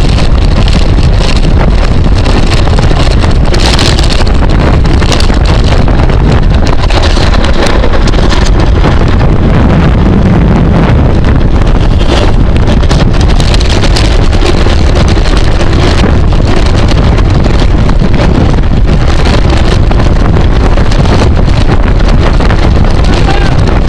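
Loud, steady wind noise on the microphone of a camera riding at speed in a bicycle race.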